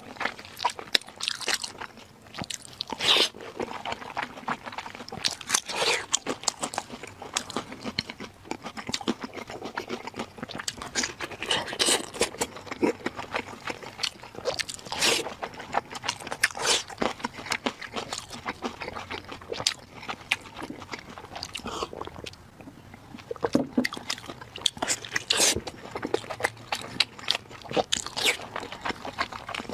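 Close-miked eating: a person biting and chewing food, with many irregular sharp crunches.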